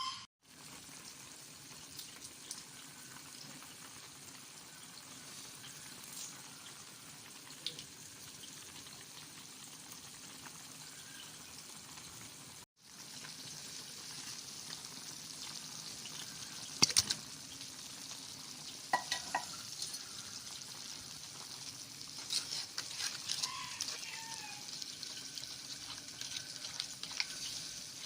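Food sizzling as it fries in a pan, a steady high hiss. From about halfway on it grows louder, with clicks and scrapes of a utensil stirring the pan.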